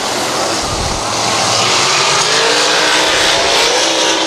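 Engines of a pack of USAC dirt-track race cars running at racing speed, their pitch rising from about halfway through as the cars come by.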